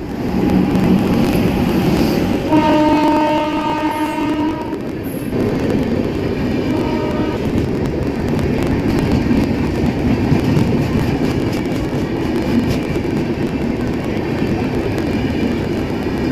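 Train running on the rails with a steady rumble. A train horn sounds for about two and a half seconds a few seconds in, then gives a short second blast.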